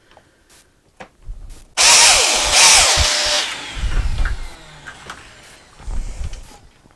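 Biscuit (plate) joiner cutting a slot. A loud burst of motor and cutting noise starts about two seconds in and lasts about a second and a half, then the motor spins down with a falling pitch. Handling knocks and thumps follow.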